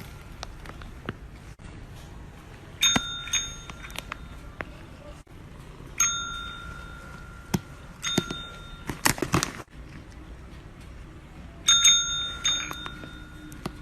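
A small bell with a clear ring, struck four times a few seconds apart, each ring fading over about a second. A short noisy burst comes between the third and fourth rings.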